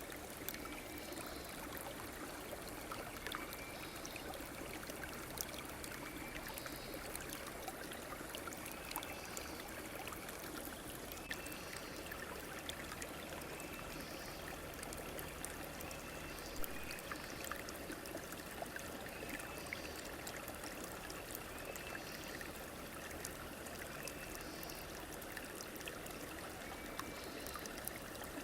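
A river or stream running steadily over stones, an even rushing water sound. Faint short calls repeat every couple of seconds over it.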